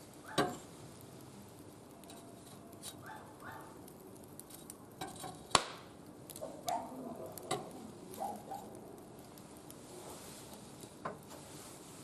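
A few sharp clicks and clinks, the loudest about halfway through, with several short squeaky high-pitched sounds in between.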